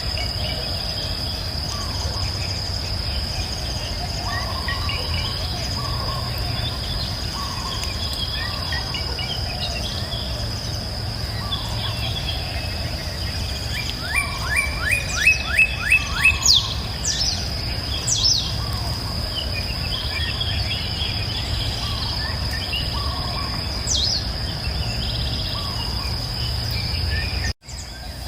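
Songbirds chirping and calling over a steady high insect drone and a low, even rush of river water. About halfway through, one bird gives a loud run of about seven quick falling whistled notes, followed by a few higher sweeping calls. The sound drops out briefly near the end.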